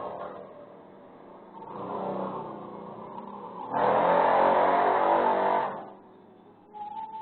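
Motor vehicles passing by one after another, the loudest rising sharply about four seconds in and dying away about two seconds later.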